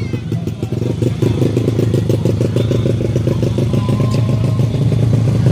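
Motocross bike engine running at low revs close by: a steady, rapid, even pulsing that grows a little louder near the end.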